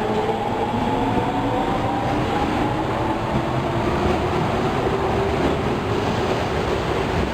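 Osaka Metro Tanimachi Line subway train running, a steady rumble of wheels and motors with the traction motors' whine climbing slowly in pitch as the train picks up speed.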